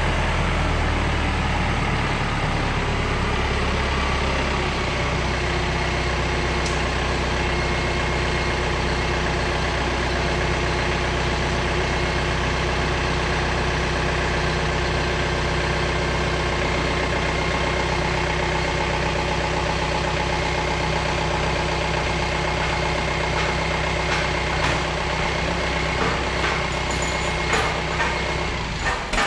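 A vehicle engine idling steadily, with a few light knocks near the end.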